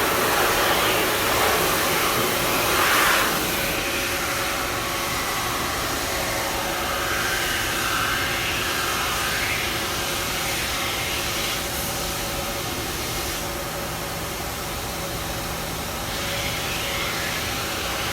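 Ski base-grinding machine running with a steady rushing noise, with a faint steady tone joining in about four seconds in.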